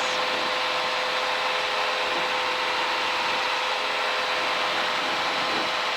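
Steady drone of a Piper Cherokee's piston engine and propeller heard inside the cabin in cruise flight, with an even rush of noise and a constant hum.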